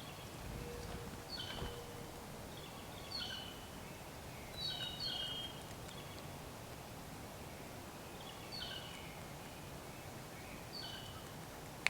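A bird calling with short, high chirps that fall slightly in pitch, repeated every second or two, some of them in quick pairs, over a faint outdoor background.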